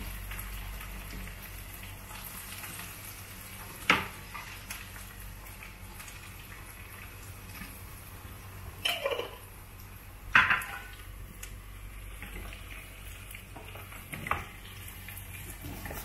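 Tempeh slices frying in hot oil in a wok, a steady low sizzle, broken by a few sharp clatters of kitchen utensils and pan, the loudest about four and ten seconds in.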